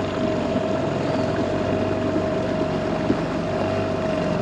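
Boat's outboard motor running steadily at a constant speed.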